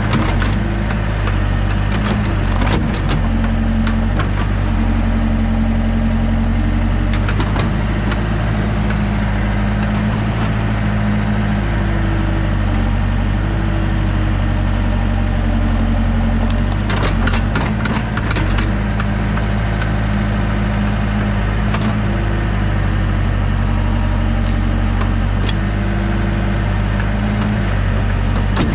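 Heavy equipment diesel engine running steadily while clearing land, its pitch lifting slightly now and then. Sharp cracks and knocks break through a few times, about two seconds in, around seven seconds and around seventeen seconds.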